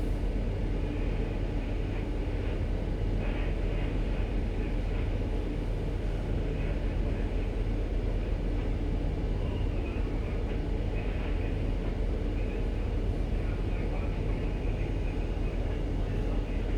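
Steady low drone of a ship's engines and machinery running with an even hum, with faint voices in the background.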